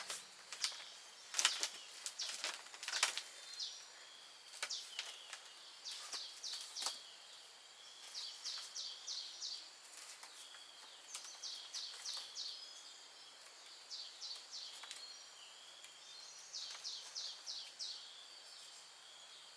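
A bird calling in short bursts of four to six quick high notes, repeated every couple of seconds, over a faint steady high insect hum. Several sharp clicks or snaps in the first three seconds are the loudest sounds.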